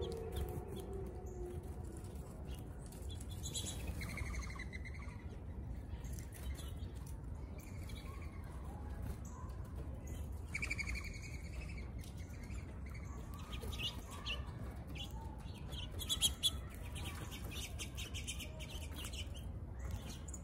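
Small birds chirping in short, scattered calls every few seconds, over a steady low hum.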